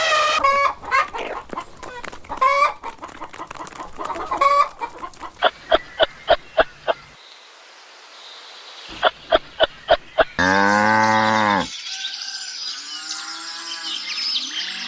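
Chickens clucking, with two quick runs of about five sharp clucks. About ten seconds in a rooster crows once, briefly, followed by high chirping calls.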